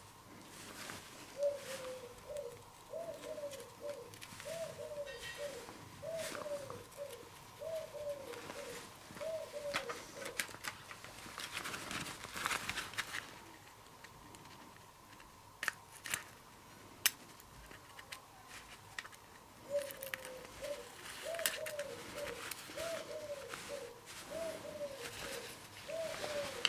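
A bird cooing, a repeated run of short rising-and-falling notes, heard in two stretches several seconds apart. Occasional light clicks and taps come from small metal and rubber brake-cylinder parts (piston, spring, seals) being handled.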